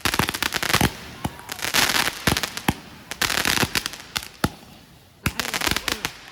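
Fireworks going off: a quick series of sharp bangs with crackle, in bursts of several shots, dying down near the end.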